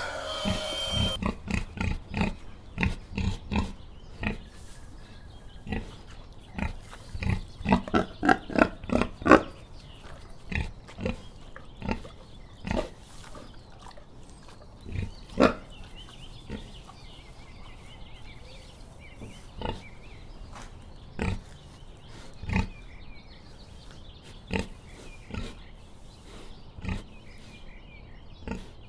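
Pig grunting: short grunts that come in a quick run about six to nine seconds in, then singly every second or two.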